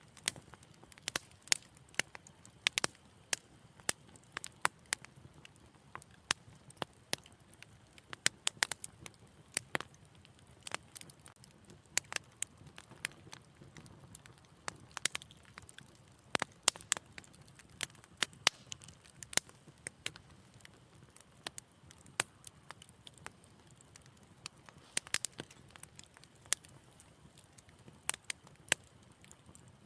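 Wood fire crackling: irregular sharp snaps and pops, sometimes several close together, over a faint low rumble.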